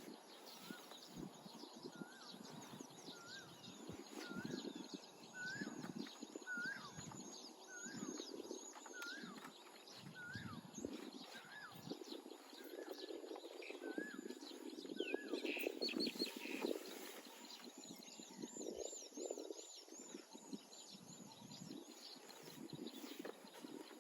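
Wild birds calling: one bird repeats a short rising note about once a second for the first fifteen seconds, over a chorus of high thin chirps. Irregular rustling noise comes and goes underneath, strongest around the middle.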